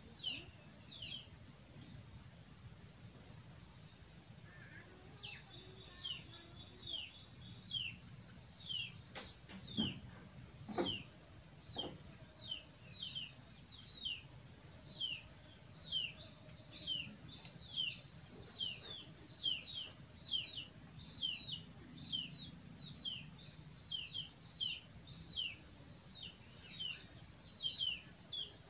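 Outdoor daytime ambience: a steady high insect drone, with a bird repeating a short falling chirp over and over. Two or three dull knocks come near the middle.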